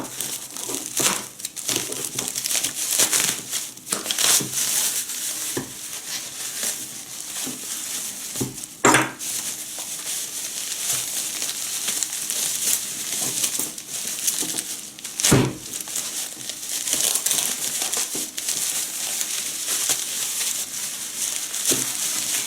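Packaging crinkling and rustling as a tightly wrapped parcel is unwrapped by hand, with two sharp knocks, one about a third of the way in and one past the middle.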